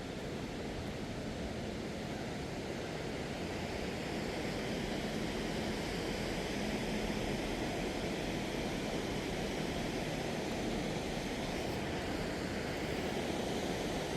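Steady rushing roar of the waterfalls and river in the gorge, a continuous wash of water noise that grows slowly louder over the first few seconds.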